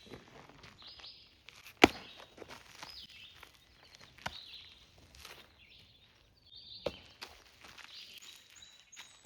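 A baseball popping into a leather glove during a game of catch: three sharp pops about two and a half seconds apart, the first much the loudest. Birds chirp in the background.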